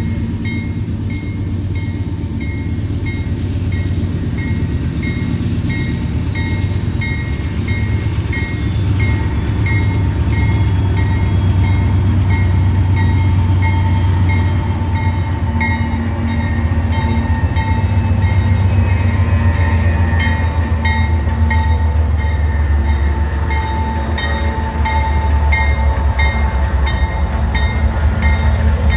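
Train passing close by, a steady loud low rumble of wheels on rail that builds slightly, with dense clicking of wheels over the rail joints later on. Through it a grade-crossing bell rings about twice a second.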